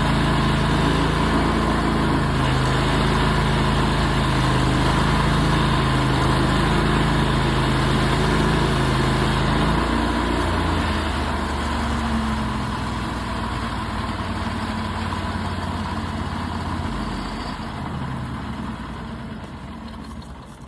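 Portable sawmill's engine running at speed, then dropping to a lower idle about halfway through, with the sound fading gradually near the end.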